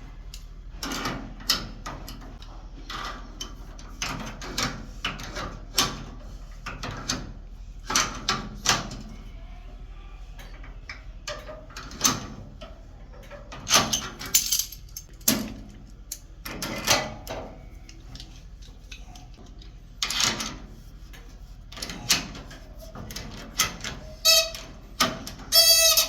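Irregular knocks, clicks and clanks of objects being handled, roughly one or two a second, some ringing briefly; near the end a pitched ringing tone comes in.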